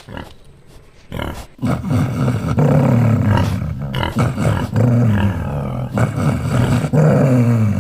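An animal's deep, loud growling roar, rising and falling in pitch in long drawn-out strokes. It sets in about one and a half seconds in, after a few short grunts.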